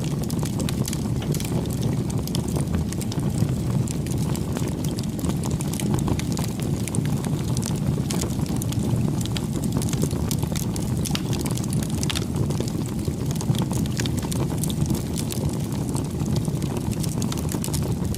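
Campfire burning: a steady low rush of flames with frequent sharp crackles and pops.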